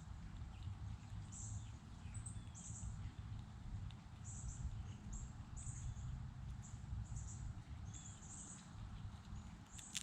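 Small birds calling with short, very high-pitched chirps that come in quick pairs and clusters, and fainter chirps lower down, over a steady low rumble.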